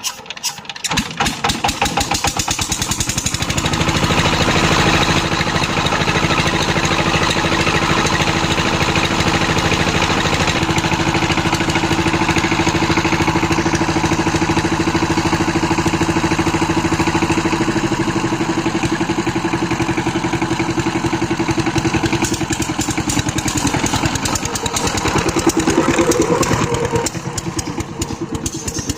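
Power tiller's single-cylinder diesel engine starting, building up over the first few seconds and then running steadily. It gets louder briefly near the end before easing back.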